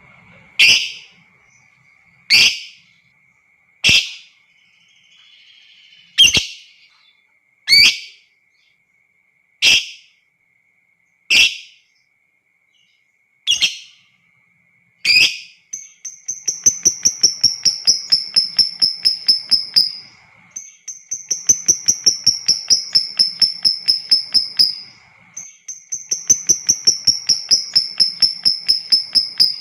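Lovebird calling: nine sharp single shrieks about every second and a half, then three long ngekek chattering trills of about four seconds each, each a fast run of clicks over a high whistle that falls slightly.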